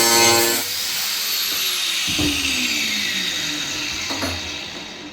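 Angle grinder running at full speed, switched off about half a second in, its whine falling steadily in pitch as the disc spins down over several seconds. Two light knocks come during the wind-down.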